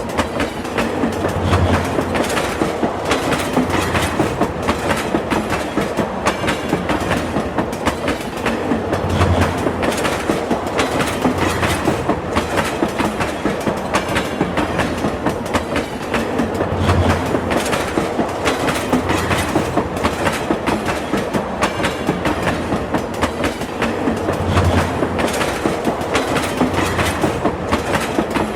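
Train running steadily, its wheels clattering rapidly over the rail joints with a continuous rumble, and a low swell recurring about every eight seconds.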